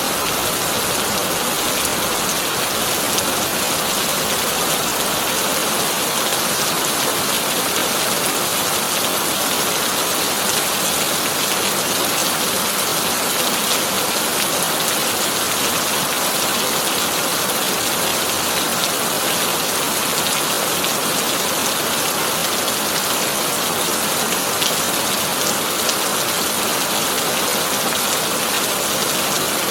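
Heavy rain falling on a tin roof: a steady, dense hiss of drops with sharp individual drop ticks scattered through it.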